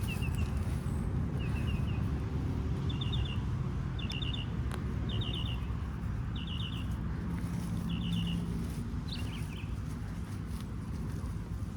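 A small bird repeating a short call of three or four quick high notes, about eight times at intervals of a second or so, stopping near the end. Under it runs a steady low rumble.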